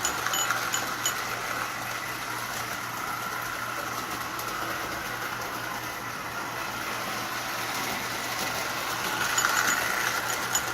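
Lionel 8300 toy steam locomotive running on three-rail track, a steady whirr of its small electric motor and wheels. It is louder near the start and again near the end, with quick regular ticks.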